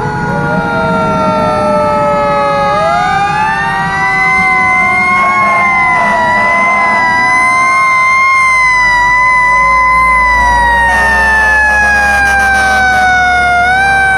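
Several fire truck sirens wailing at once, their overlapping tones slowly rising and falling out of step with each other. A low engine rumble joins partway through.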